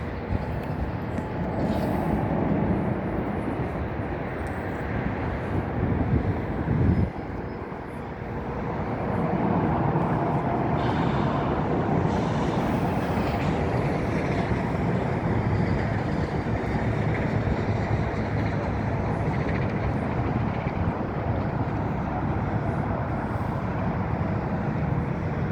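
Jet airliner engines, a loud steady drone with a constant tone running through it. It dips briefly about seven seconds in, then builds again and holds.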